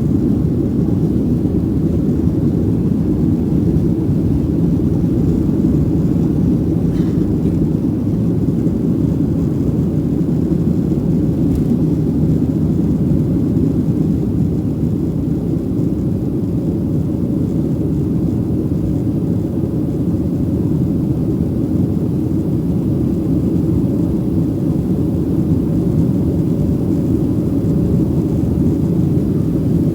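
Boeing 737 airliner's jet engines and airflow during takeoff, a steady low rumble.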